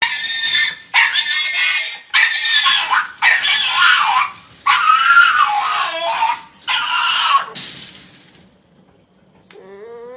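A dog letting out a series of about six loud, strained cries, each about a second long, then falling quiet.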